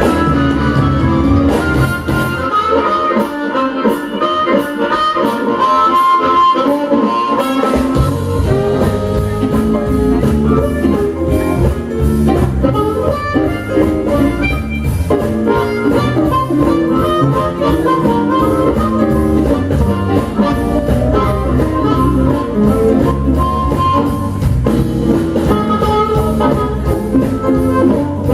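Live electric blues band with amplified blues harmonica playing lead over guitar. After about two seconds the bass and drums drop out, leaving the harmonica and guitar; the full band comes back in about eight seconds in.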